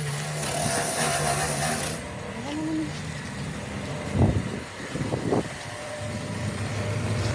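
An engine running steadily, with two knocks about four and five seconds in, and the engine growing louder near the end.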